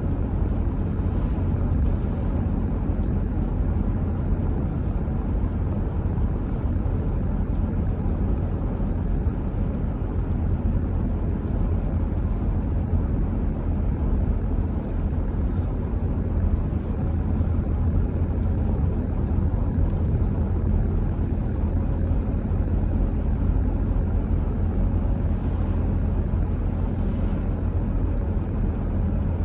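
Car driving at a steady pace, a constant low rumble of engine and tyres on the road that does not change.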